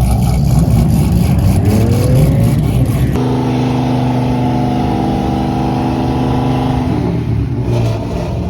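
Car engines revving, one rising in pitch about two seconds in; after about three seconds the sound changes abruptly to a single engine held at a steady high pitch for about four seconds before it drops away.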